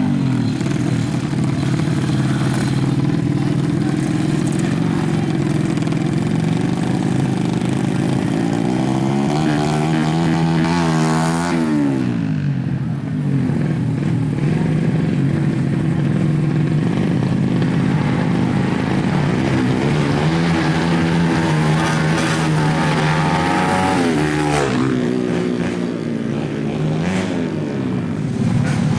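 Tuned motorcycle engines of an underbone drag-race bike (a Yamaha Jupiter MX) running at high revs. The pitch sweeps up and then falls away about ten seconds in and again about twenty-five seconds in, as a bike revs up and passes.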